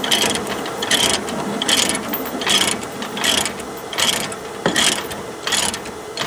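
Ratchet chain binder being cranked to tighten a tie-down chain, its pawl giving a rasping ratchet burst with each stroke of the handle, about one stroke every three-quarters of a second.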